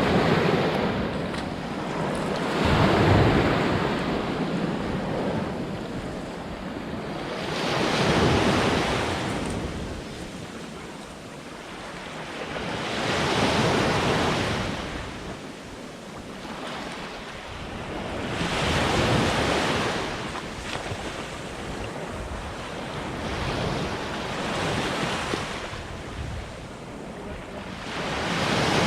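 Black Sea waves breaking on the shore, one surge of surf about every five seconds, with some wind on the microphone.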